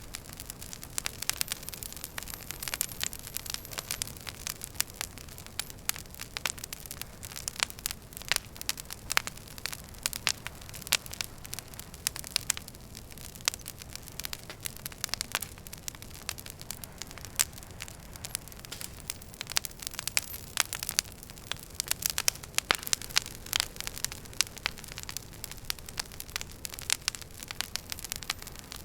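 Wood fire burning in a fireplace: a steady low rush with frequent irregular crackles and pops from the burning logs.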